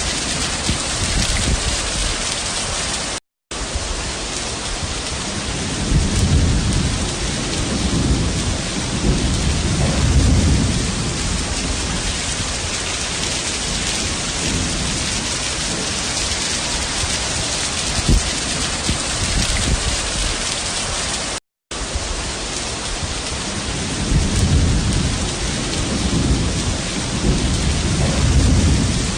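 Heavy rain pouring steadily, with a low thunder rumble about six seconds in and another near the end. The sound cuts out briefly twice.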